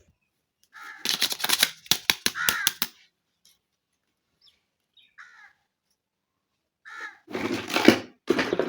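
Small plastic toy parts being handled, clicking and clattering in quick runs: one burst about a second in, a few faint ticks, then a second burst near the end.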